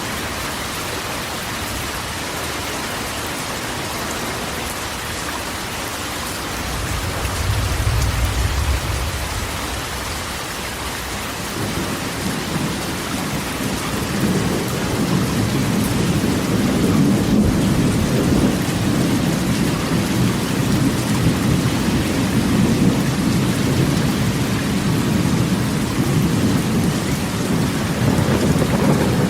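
Heavy rain drumming steadily on a corrugated metal roof, an even hiss. A low rumble of thunder comes about seven seconds in, and a longer, louder roll of thunder builds from about twelve seconds in and carries on.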